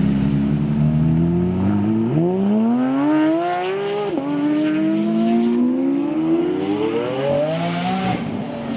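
Supercar engine accelerating hard, its pitch climbing through a gear, dropping sharply at an upshift about four seconds in, then climbing again through the next gear.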